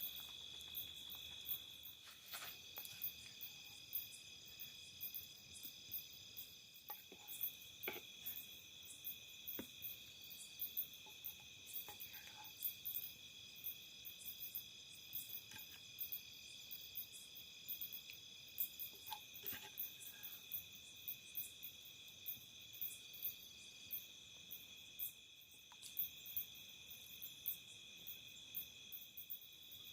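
A steady insect chorus, a constant high trill at several pitches, with a few faint knocks scattered through it.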